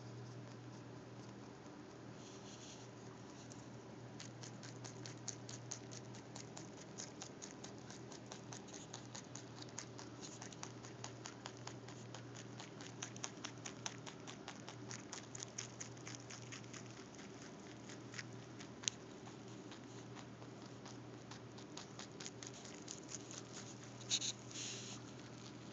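Rabbit chewing cilantro: a long run of rapid, crisp crunching clicks, several a second, with a couple of louder clicks near the end.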